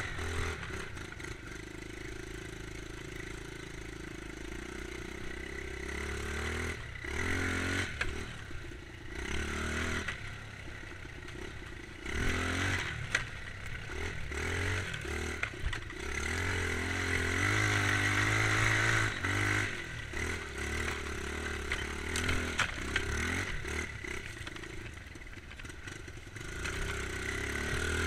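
Dirt bike engine revving up and down as it is ridden over rough ground, with frequent knocks and clatter.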